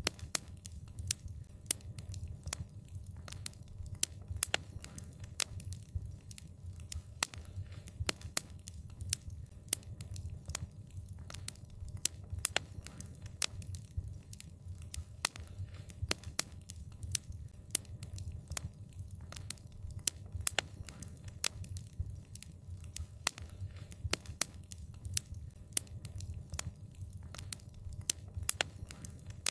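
Fire crackling: frequent, irregular sharp pops and snaps over a steady low rumble of the flames.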